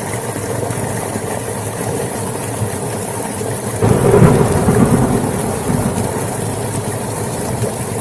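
Steady rain hissing down, with a low rumble of thunder swelling about four seconds in and dying away over the next couple of seconds.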